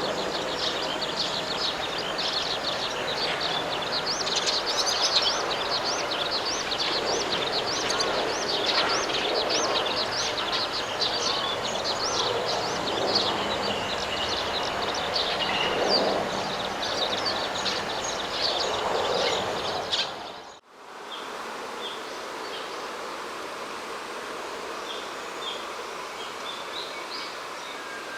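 Many small birds chirping in a dense, busy chorus over a steady rushing background noise. About two-thirds of the way through it cuts out and gives way to a quieter outdoor ambience with only a few faint, scattered chirps.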